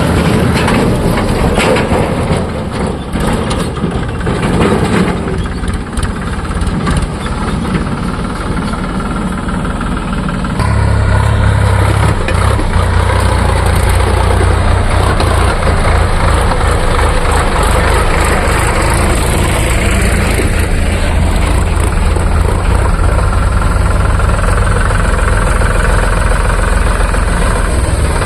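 Diesel engines of a JCB 3DX backhoe loader and a tractor running with a knocking diesel clatter. About ten seconds in the engine note gets louder and deeper and then holds steady, as an engine is put under load.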